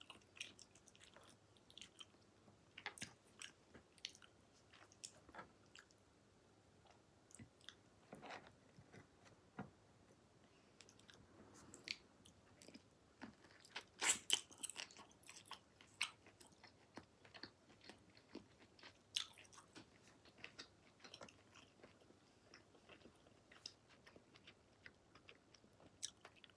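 Faint close-up chewing and biting of raw sashimi: scattered wet mouth smacks and clicks, with a louder flurry about halfway through.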